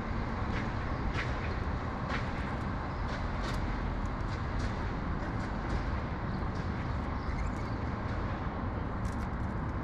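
Steady low rumble of city traffic, with brief high ticks scattered through.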